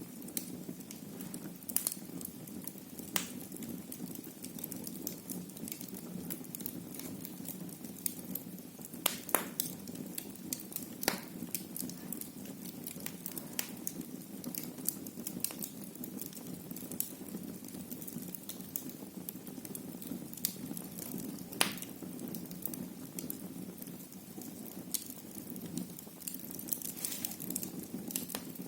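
Wood fire burning in a fireplace: a steady low rumble of flames, with irregular sharp crackles and pops from the burning wood.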